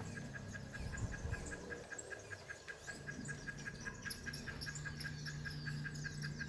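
Cicada calling: a steady, rapid train of evenly spaced, same-pitched pulses that sounds like an electronic alarm, with higher chirps scattered above it.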